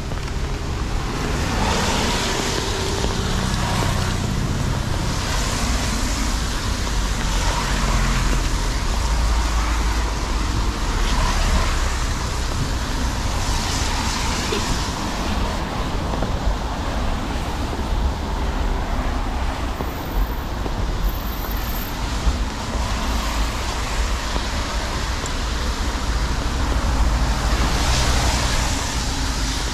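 Steady city road traffic on a rain-wet street: a constant low engine rumble with tyres hissing, swelling every few seconds as cars and buses pass.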